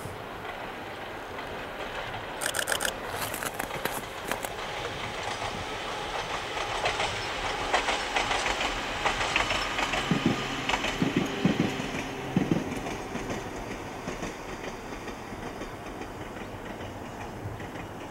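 Ohmi Railway electric train set 822F running past, its wheels clicking and clattering over rail joints. The clatter is loudest in the middle and fades away near the end as the train moves off.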